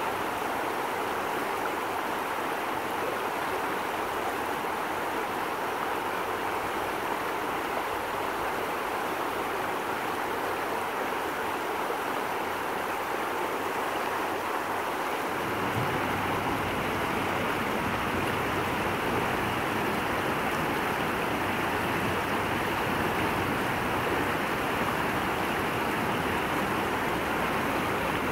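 Water running steadily, like a stream flowing over rocks, with a low rumble joining about halfway through.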